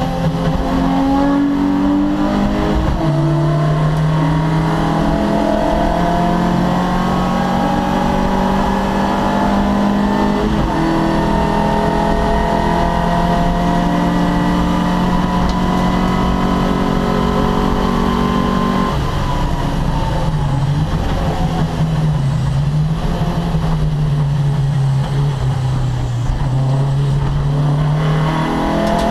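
Opel Kadett C race car's engine at full throttle. The revs climb steadily between gear changes, dropping sharply about 3, 10 and 19 seconds in. After the last drop the revs rise and fall at a lower level until they pick up again near the end.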